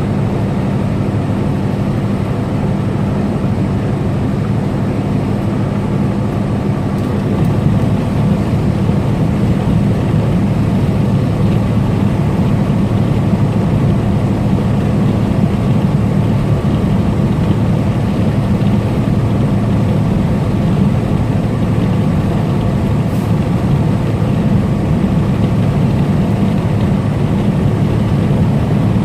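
Semi-truck engine and road noise at highway speed: a steady low hum that gets slightly louder about seven seconds in.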